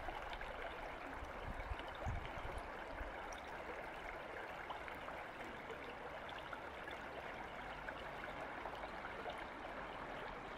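Small creek babbling steadily, with a couple of brief low bumps about two seconds in.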